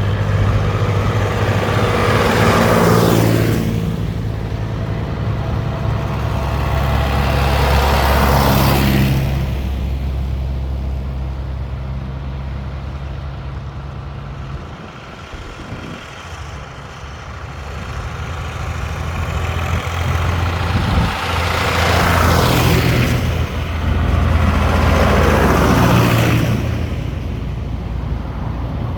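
Vintage tractors driving past one after another, each engine swelling and fading as it passes, with a quieter lull about halfway through.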